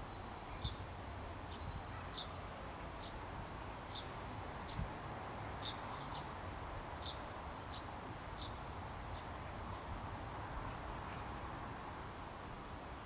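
A small bird repeating a short, high chirp a little more than once a second, stopping about nine seconds in, over a steady low background rumble.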